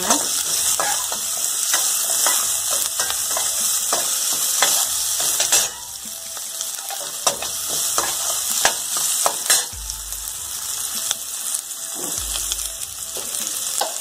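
Sliced shallots sizzling in hot oil in a stainless steel kadai, stirred with a metal ladle that clicks and scrapes against the pan at irregular moments.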